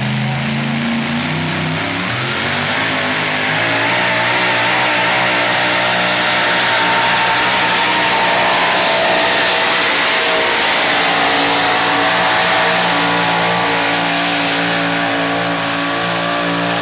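Truck engine at full throttle pulling a weight sled. It revs up over the first few seconds, then holds steady at high revs under load.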